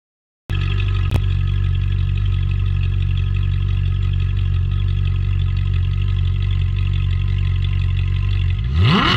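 Car engine idling steadily, cutting in suddenly about half a second in, then revving up sharply near the end.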